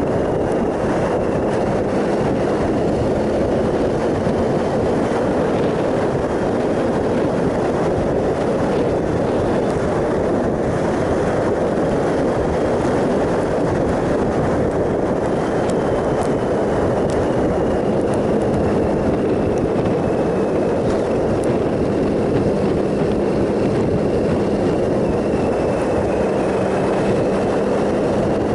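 2007 Triumph Sprint ST 1050's three-cylinder engine running at a steady cruise, mixed with wind and road noise from riding. The engine note holds level throughout, with no gear changes or revving.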